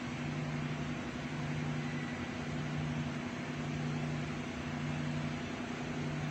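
Steady machine hum with a fan-like hiss, under a low tone that breaks off briefly about once a second.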